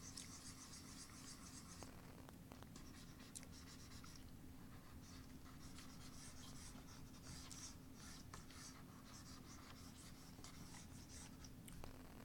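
Drawing strokes scratching on a surface, one after another in quick runs with short pauses, faint and high-pitched.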